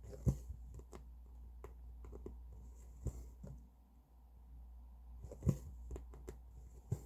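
Hand cross-stitching at close range: faint rustles and small clicks of needle and thread being worked through fabric, with a few soft knocks, about one every two seconds, over a low steady hum.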